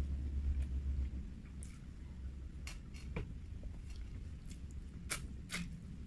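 A person chewing fried chicken close to the microphone, with a low rumble in the first second and a few short sharp mouth clicks spread over the later seconds as she picks up a drumstick and bites into it.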